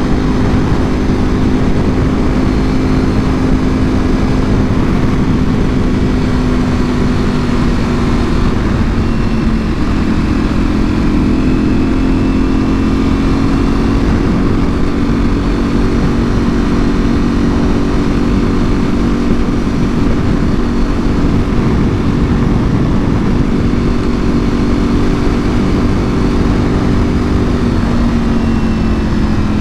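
Ducati Panigale V4R's 998 cc V4 engine through an Akrapovic full exhaust, running at a steady cruise under a steady low rush. The pitch shifts slightly about nine seconds in and dips a little near the end.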